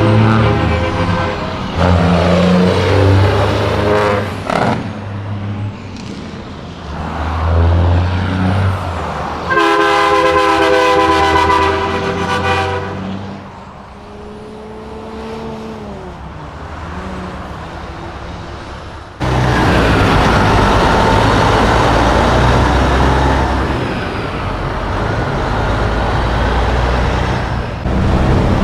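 Semi trucks pulling out, diesel engines running, with an air horn blast of about three seconds near the middle. From about two-thirds of the way through, a loud, steady rush of engine and road noise as a truck goes by close.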